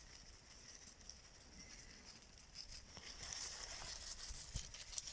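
Stew of pork heart and vegetables simmering and sizzling faintly in a cast-iron kazan, a steady hiss, joined about three seconds in by scattered crackles and rustling.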